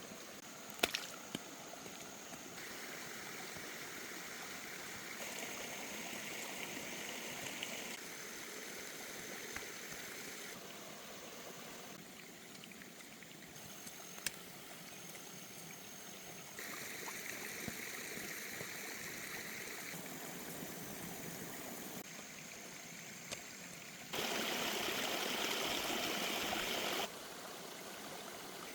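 Running stream water, its rushing sound jumping abruptly in level and tone every few seconds. It is loudest and fullest for about three seconds near the end, and there are a couple of sharp clicks, one about a second in.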